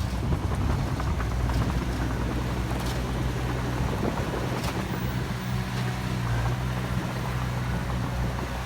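Heavy earthmoving machine's diesel engine running steadily with a low drone, with a few faint clicks over it.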